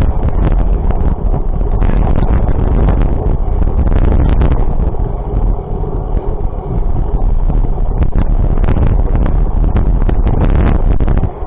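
Loud wind buffeting the microphone over a low rumble, with scattered crackles; it drops away suddenly near the end.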